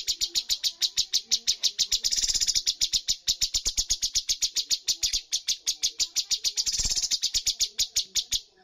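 Cucak cungkok songbird singing a long rapid-fire 'tembakan' burst: a fast, even train of sharp high notes, about nine or ten a second. It breaks off abruptly near the end.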